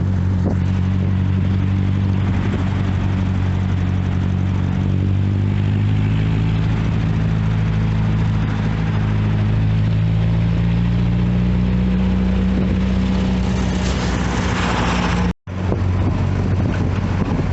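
1973 Triumph Spitfire 1500's four-cylinder engine running under way, its note drifting slowly up and down with the throttle. The sound cuts out for a moment about fifteen seconds in, then carries on.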